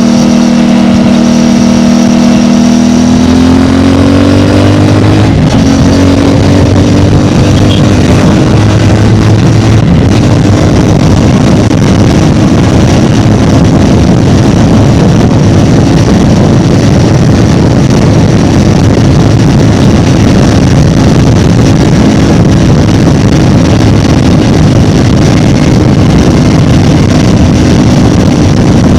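CFMOTO 450MT's parallel-twin engine through its stock exhaust, holding a steady note and then rising in pitch as it accelerates a few seconds in. It then runs at a steady speed with a loud rushing noise over the engine tone.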